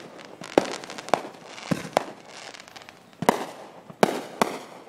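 Fireworks going off: a string of sharp bangs at uneven intervals, about seven in under five seconds, some trailing off briefly after the crack.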